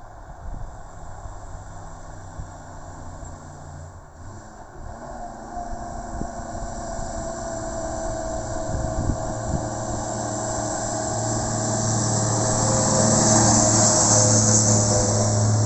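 1954 Bedford fire engine's engine running as the truck approaches, growing steadily louder over about ten seconds and easing off slightly near the end, with a steady whine above the engine note.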